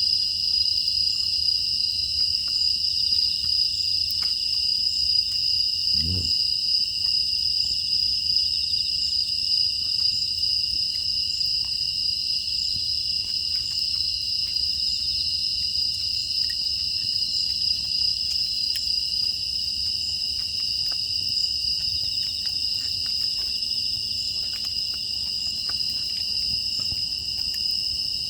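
Steady night chorus of crickets and other insects, a continuous high trilling, with scattered faint crackles from a wood fire. A brief low sound stands out about six seconds in.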